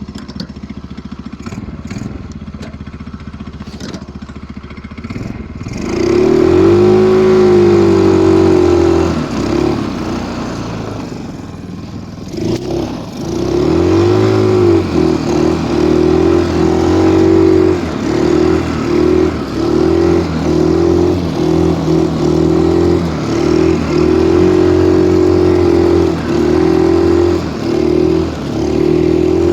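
Stels Kapitan snowmobile engine ticking over low for about six seconds, then revved hard as it pushes through deep snow. Its pitch rises and falls with the throttle, sags briefly around the middle, then picks up again in repeated surges.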